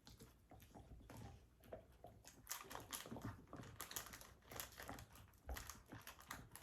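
Faint, irregular crinkling and clicking of eating and handling takeout food and its wrappers.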